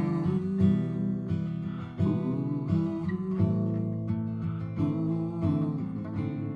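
Acoustic guitar strumming chords, a new chord about every second or so, with no singing.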